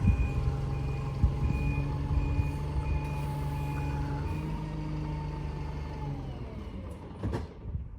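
A diesel bus manoeuvring: its reversing alarm beeps repeatedly over the running engine for about the first four seconds. The engine's whine drops away about six seconds in, followed by a couple of sharp knocks.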